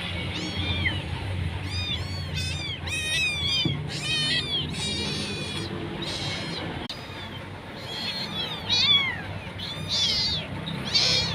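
Young kittens mewing repeatedly in short, high-pitched calls, often overlapping one another, with a steady low hum underneath.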